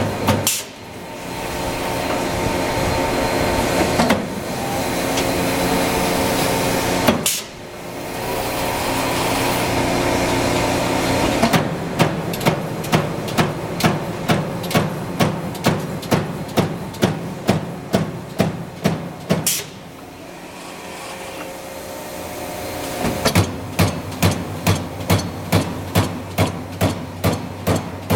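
Amada Vipros 358 King CNC turret punch running with a steady machine hum. A couple of single heavy clunks come in the first eight seconds. Then come rapid, evenly spaced runs of punch hits, about two to three a second, from about twelve to twenty seconds in and again from about twenty-three seconds on.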